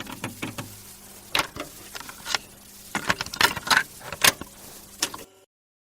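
A run of irregular sharp clicks and clinks over a steady low hum, louder and closer together from about three seconds in, stopping shortly before the end.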